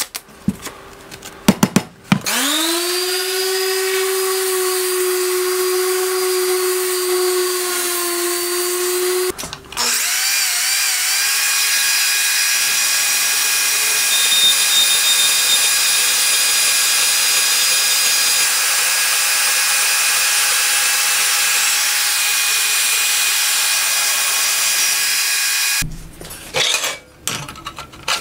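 A few clicks as a hook-and-loop disc is pressed onto a random orbital sander, which then spins up and runs steadily for about seven seconds. After a brief stop, a Milwaukee deep-cut portable band saw with a metal-cutting blade runs steadily for about sixteen seconds, cutting through a steel plate. A few clicks and knocks follow near the end.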